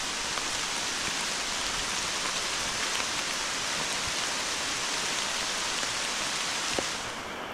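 Heavy rain pouring down in a dense, steady hiss. About seven seconds in, the highest part of the hiss fades and the sound turns duller.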